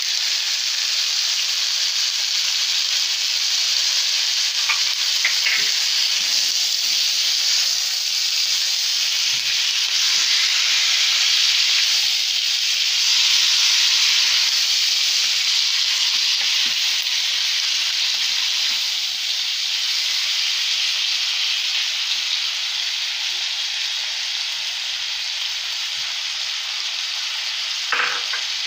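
Sliced bell peppers, onions and chicken sizzling steadily in a hot frying pan as they are stirred with a wooden spatula. There are occasional light taps and one sharper knock near the end.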